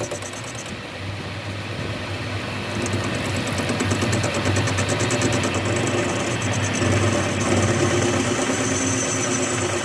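An engine running steadily, growing louder over the first few seconds and then holding, with a fine fast ticking on top.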